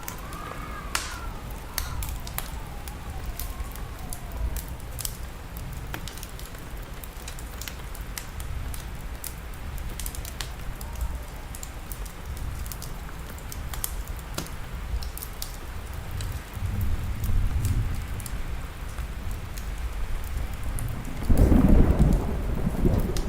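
Fire crackling with many sharp pops over steady rain. Thunder rumbles twice, the louder roll near the end.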